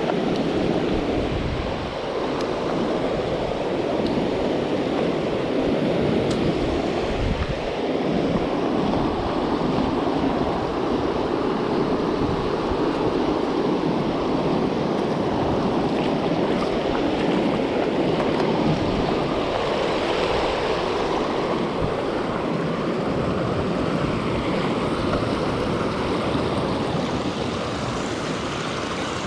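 Steady rushing of a fast-flowing stream, a continuous even wash of water noise.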